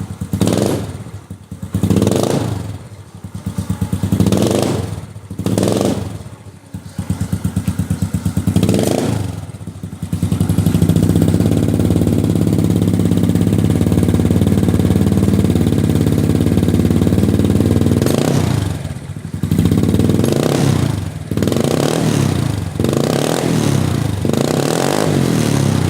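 Yamaha Nouvo Z scooter engine through a hollowed-out slip-on exhaust, revved in a series of quick blips, held at steady high revs for about eight seconds in the middle, then blipped again.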